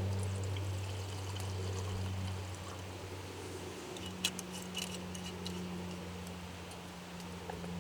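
Liquid trickling over a steady low hum, with a few small clicks about four to five seconds in.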